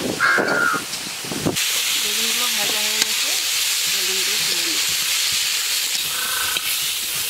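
A crow caws once. Then a steady sizzle of brinjal and potato pieces frying in an iron kadai, with a single clink of the spatula about three seconds in.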